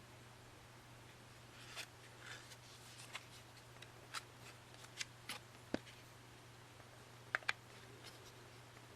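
Album sleeves from a CD box set being handled: a string of short paper-and-cardboard rustles and sharp clicks, ending with two quick clicks near the end, over a faint steady hum.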